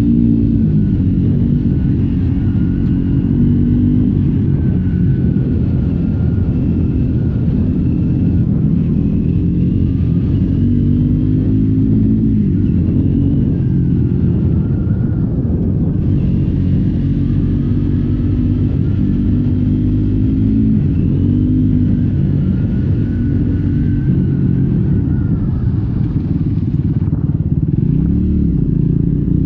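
Triumph Scrambler 400X's single-cylinder engine through the stock exhaust, heard from the rider's seat while riding. It runs steadily, its pitch rising and falling several times as the throttle opens and closes and the gears change, with a quick rise and fall near the end.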